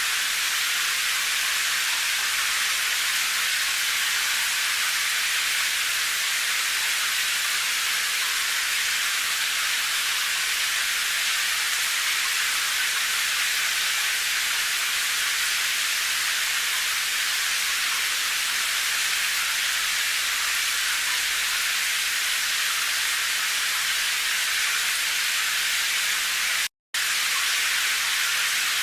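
Steady rain: an even, high hiss with no single drops standing out. Near the end it cuts out completely for a split second, then resumes.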